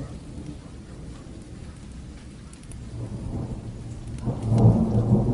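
Steady rain with a fire crackling in scattered light clicks, under a low rumble of thunder that swells about three seconds in and is loudest near the end.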